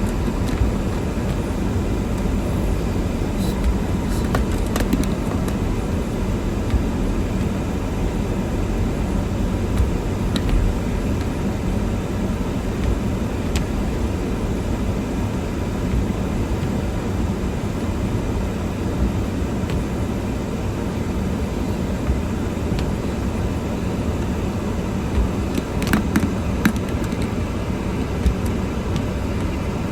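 Car driving, with a steady low rumble of engine and road noise and a few faint clicks about 26 seconds in.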